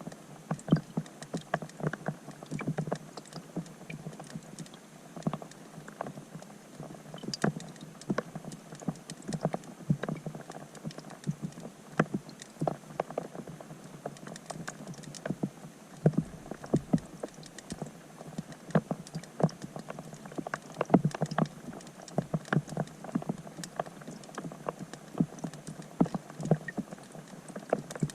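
Raindrops striking the pond's surface, heard underwater through a GoPro Hero 5 Black: a dense, irregular patter of muffled taps and plinks, some much louder than others.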